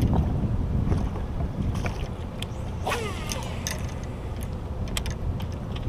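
Wind rumbling on the microphone over the water, with scattered light knocks and clicks from handling on a kayak, and a short squeak about three seconds in.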